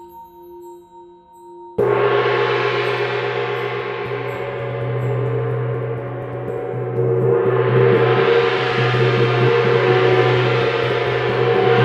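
A gong is struck about two seconds in, over the steady ring of a singing bowl, and its dense shimmering wash builds and swells again midway as it is played on.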